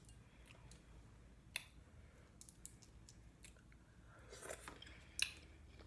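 Quiet close-up eating of shrimp: scattered small clicks and smacks of lips and shell, with a short louder patch about four and a half seconds in.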